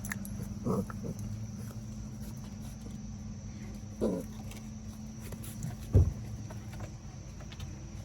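Boerboel puppies giving two short yelps that fall in pitch, a few seconds apart, then a sharp low thump about six seconds in, over a steady low hum.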